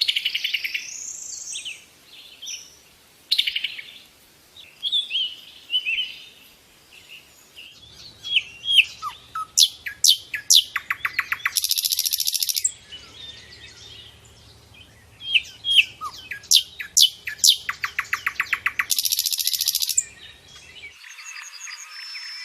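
Wild songbirds chirping and singing: a busy mix of short whistled chirps, runs of rapid sharp notes and a couple of dense buzzy trills about a second long. The background changes abruptly near the end.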